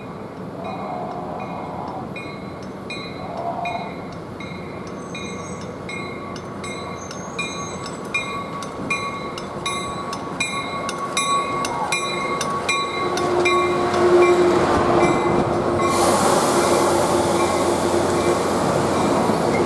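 Grade-crossing bell dinging steadily as a train approaches and passes. The train's wheel and rail noise grows louder through the second half, with a hiss in the last few seconds.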